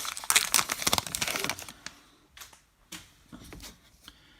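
Plastic wrapper of a baseball card pack crinkling as it is opened and pulled off the cards, dense for the first second and a half, then sparse light clicks of cards being handled.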